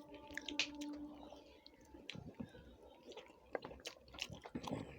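Close mouth sounds of eating a meal of rice and chicken curry: chewing with wet lip smacks and small clicks. A steady low hum runs underneath and stops about a second in.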